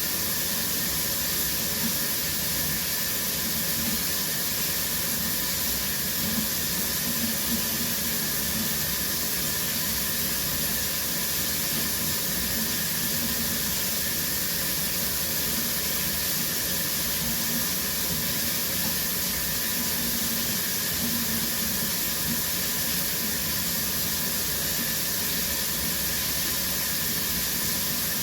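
Shower spray running steadily, water hissing as it falls, with no change in level.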